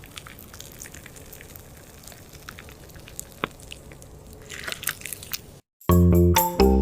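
Faint close-up wet squishing and crackling, with scattered small sharp clicks. Near the end it stops, and piano music comes in.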